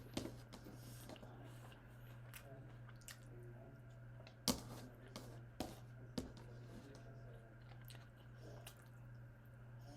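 A person chewing food close to the microphone, with soft wet mouth sounds. There are a few sharp clicks about halfway through, over a steady low hum.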